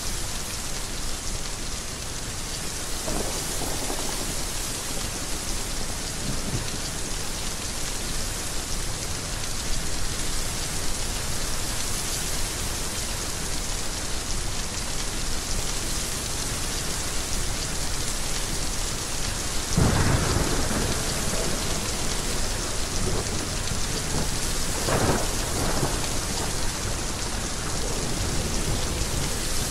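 Heavy rain falling steadily, with rolls of thunder: a faint one a few seconds in, the loudest about two-thirds of the way through, and another shortly after.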